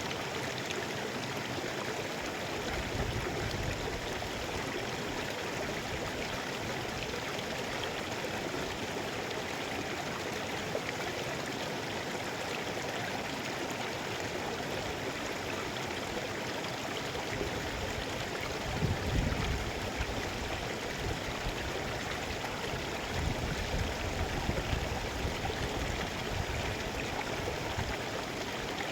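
Mountain river rushing steadily over rocks, with a few brief low rumbles, the strongest about two-thirds of the way through.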